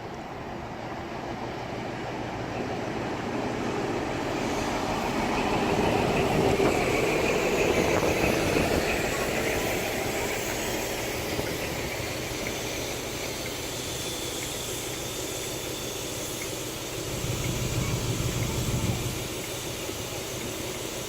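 InterCity 125 High Speed Train with Class 43 diesel power cars at the platform, its engines and train noise swelling and then easing back.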